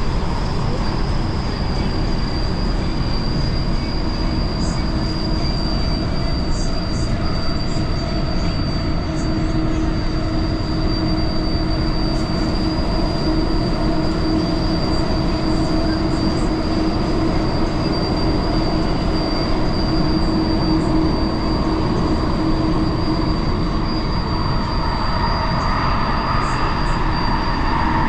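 Elizabeth line Class 345 electric train running at speed through tunnel, heard from inside the carriage: a steady rumble and rush of wheels on rail with a constant high whine over it. Near the end a louder rushing, squealing band builds.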